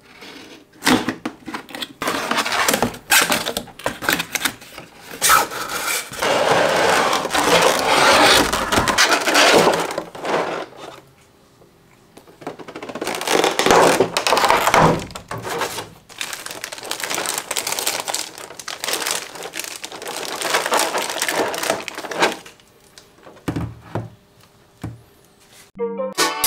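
Packaging of a boxed vinyl figure being opened and handled: crackling and crinkling of plastic and cardboard with sharp clicks and knocks, in long bursts with short pauses between them.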